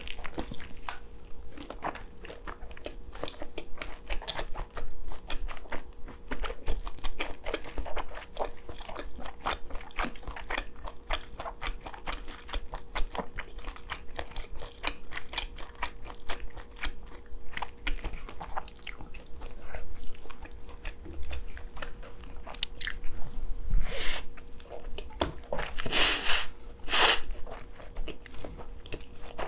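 Close-miked chewing and biting of spicy stir-fried noodles and kielbasa sausage: a steady run of wet mouth clicks and smacks, with a few louder, noisier bites near the end.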